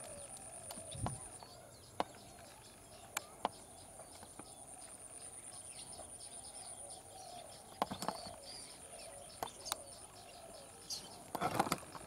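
Wetland ambience with small birds chirping and a few sharp clicks over a steady high-pitched tone, with a flurry of sharper sounds near the end.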